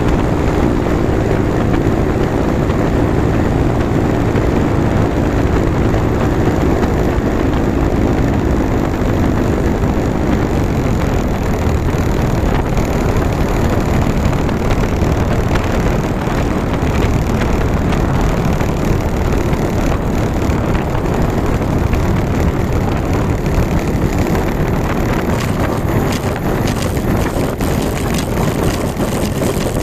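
Simonini Mini 3 two-stroke engine running steadily with its propeller, with heavy wind noise on the microphone. A clear engine note is heard for about the first ten seconds, then it blends into a steady roar of wind and engine noise.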